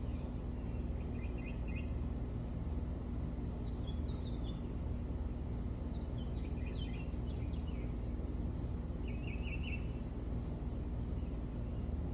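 Faint bird chirps in short, scattered phrases about a second in, near four seconds, around six to seven seconds and again near nine to ten seconds, over a steady low background hum.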